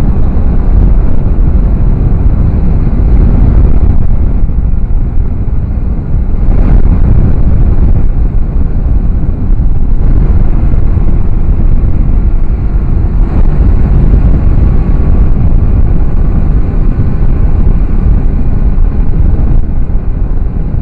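Loud, steady wind noise on the camera's microphone from a motorcycle in motion, with the motorcycle running underneath.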